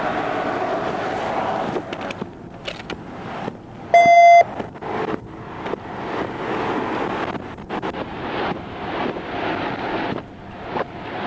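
Steady traffic and wind noise at the roadside, broken by scattered short clicks and knocks. About four seconds in comes a single loud electronic beep lasting about half a second.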